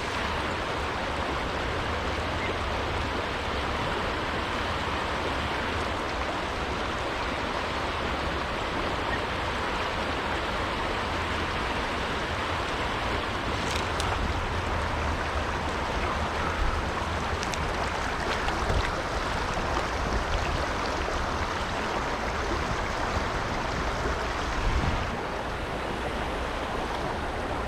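Small creek flowing, a steady, even rush of water.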